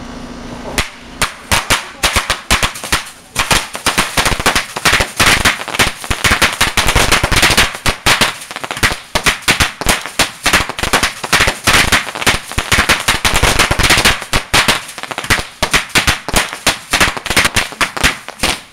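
A box of fireworks going off: rapid, continuous cracking bangs, many a second, starting about a second in and running on without a break.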